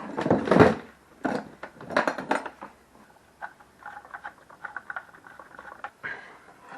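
Metal clanking and rattling as an angle grinder is handled and tried onto a steel hanger bar on a welding table: several sharp knocks in the first two and a half seconds, then lighter quick ticking and rattling.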